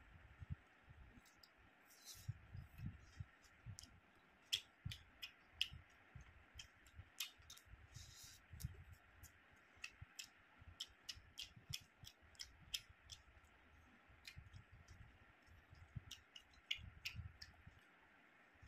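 Close-up eating sounds: a man chewing a mouthful of rice and curry eaten by hand, with frequent wet mouth clicks and lip smacks at an irregular pace over soft low chewing thumps. A faint steady hum runs underneath.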